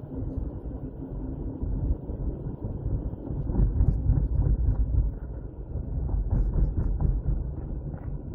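A car on the move: a steady low rumble of road and wind noise.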